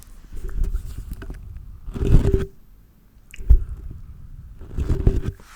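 Hands rubbing and swishing close to a sensitive microphone in four separate bursts of low, muffled rubbing, the loudest about two seconds in.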